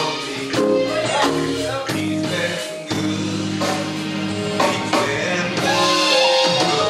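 Live gospel music: a singer over a band with guitar and drums.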